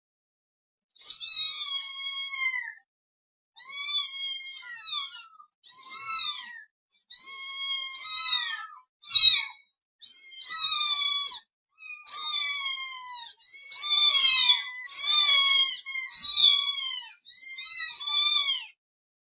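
A cat meowing over and over, about a dozen high-pitched meows one after another, most of them falling in pitch at the end.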